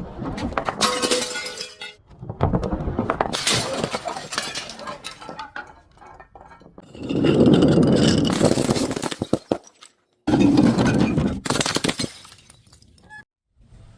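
Glass being broken and crushed: crunching and shattering with clinking shards, in four bursts of a few seconds each with short pauses between.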